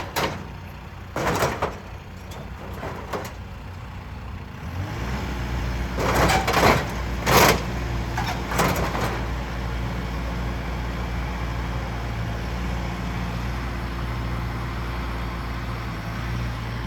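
A tractor's diesel engine running; about five seconds in the throttle comes up and it settles into a steady, louder run. Several loud metallic clanks and rattles come between about six and nine seconds.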